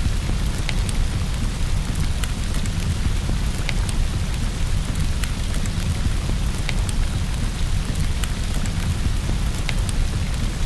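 Steady rain on a window over a continuous low rumble of distant thunder, with the irregular sharp pops and crackles of a wood fire in a fireplace.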